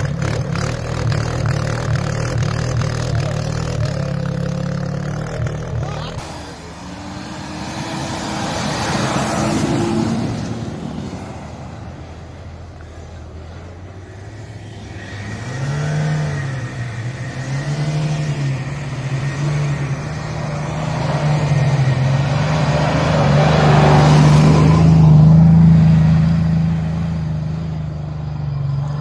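Off-road 4x4 vehicle engines running and revving as they drive through deep snow, the engine pitch rising and falling. The engines get louder toward the end, with the loudest stretch a few seconds before the end.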